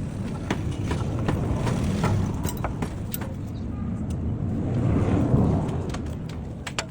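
A motor vehicle engine rumbling, swelling to its loudest about five seconds in and easing off, with scattered clicks and knocks over it.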